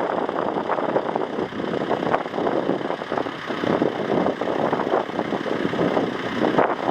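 Jet airliner engines making a steady, loud rushing noise, with gusty wind buffeting the microphone.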